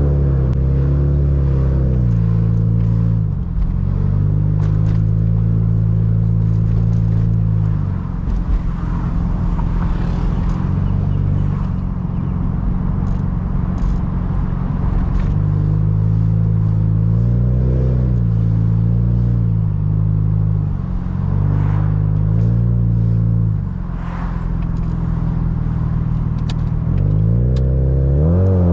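Car being driven, its engine holding a steady note with road noise, the pitch sweeping and shifting a few times as the revs change.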